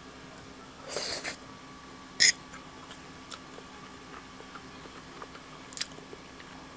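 A person chewing a mouthful of thick noodles with lips closed. A short breathy rush comes about a second in, and a single sharp click just after two seconds, with a few faint ticks later.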